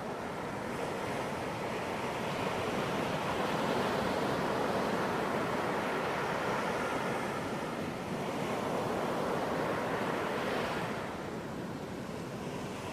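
Ocean waves breaking and washing up on a beach, a continuous rushing surf that swells twice and eases off toward the end.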